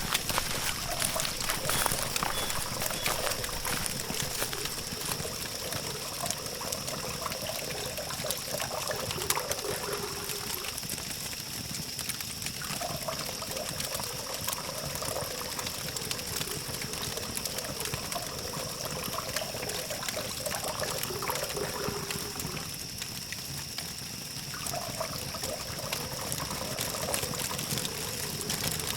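Campfire crackling: a dense run of small pops and snaps over a steady hiss, with a thin steady high tone behind it.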